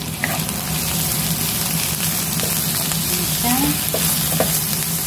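Sliced onions, garlic and ginger sizzling in hot oil in a pan, stirred and scraped with a wooden spatula, over a steady low hum.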